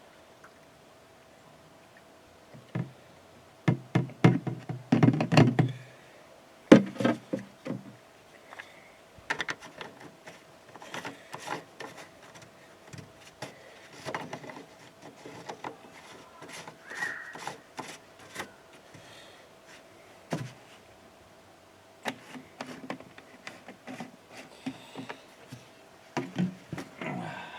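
Irregular knocks, clunks and clicks of hands-on work around a skid-steer loader, such as parts and caps being handled and set down. They come thickest about four to eight seconds in.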